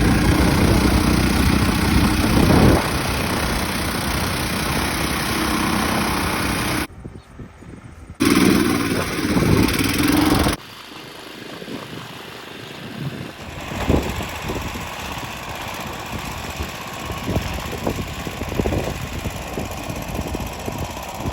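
Long-tail boat motor running hard. The sound cuts out abruptly for about a second near the seven-second mark, then cuts off again after about ten seconds and carries on at a much lower level with occasional spikes.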